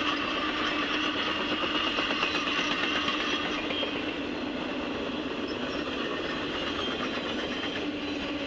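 Intermodal freight train cars rolling past, a steady rumble of steel wheels on rail with rhythmic clickety-clack over the rail joints. A steady tone runs under the wheel noise.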